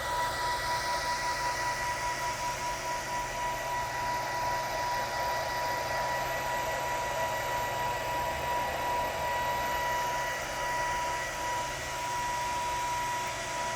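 Servo motor run by an Omron R88D-KN30F-ECT 3 kW servo drive on a test bench: a steady whir with a high, even whine. Part of the noise shifts in pitch in the first couple of seconds.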